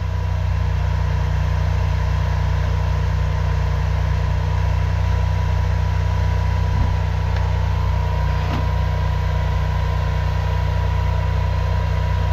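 High-pressure drain jetter's engine idling steadily after being throttled down, with a thin steady tone over the low engine note.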